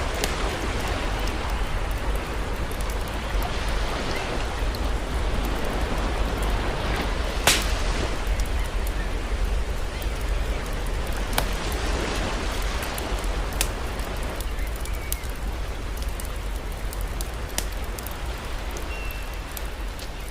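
Campfire crackling with scattered sharp pops, one louder pop about seven and a half seconds in, over the steady wash of sea waves.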